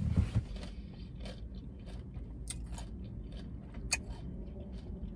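Close-up chewing of a mouthful of burrito bowl, with soft wet mouth clicks at irregular intervals and a couple of louder smacks right at the start, over a steady low hum.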